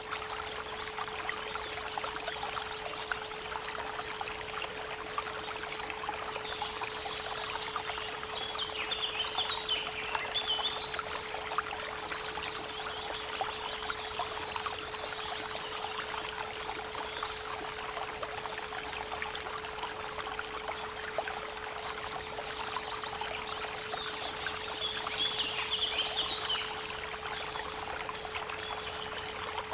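Creek water running steadily over a continuous 432 Hz pure tone. Birds chirp in two short spells, about a third of the way in and again near the end, with a few brief high notes in between.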